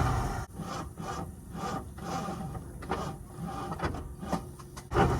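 A Jeep J10 pickup's engine running low under a rhythmic rasping scrape that repeats about two to three times a second.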